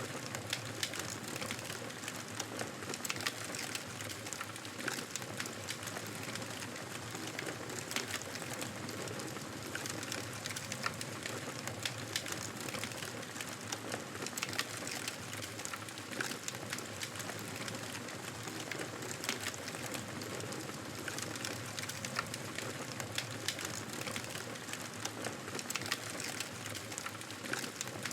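Wood fire burning in a fireplace: a steady hiss of flames with frequent small pops and crackles scattered irregularly throughout.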